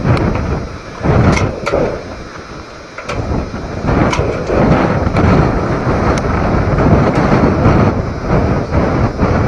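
Strong gusting wind buffeting the microphone, easing off briefly and then picking up again, with scattered sharp knocks and rattles from a loose car hood flapping in the gusts.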